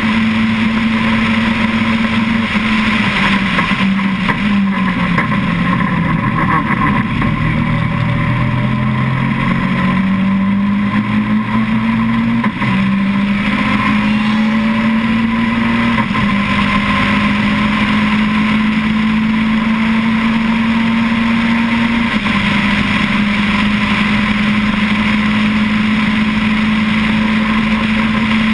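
Caterham Seven's 2.1-litre four-cylinder race engine, heard onboard at speed through the open cockpit. The revs drop in steps about four to six seconds in as the six-speed sequential gearbox is shifted down. They then climb again, with quick upshifts at about twelve, sixteen and twenty-two seconds.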